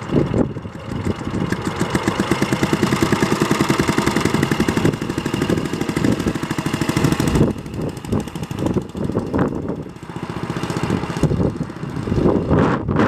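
1965 Cushman Eagle scooter's single-cylinder engine running with an even, steady beat of firing pulses, turning uneven after about seven seconds.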